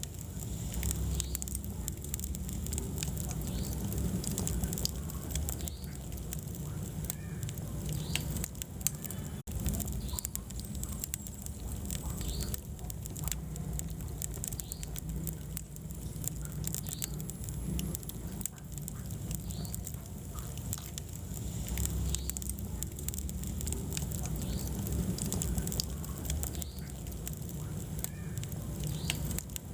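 Wood fire burning in a fireplace, crackling with a dense run of small sharp pops over a steady low rumble of flame.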